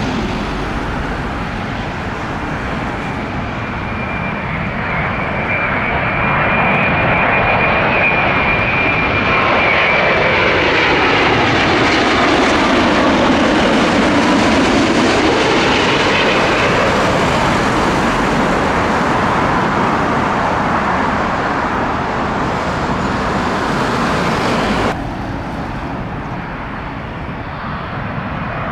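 Jet airliner's engines passing close by: a high whine over a rushing engine noise that swells to its loudest around the middle, with sweeping tones as the aircraft goes past. About three-quarters of the way through it drops suddenly to quieter jet noise.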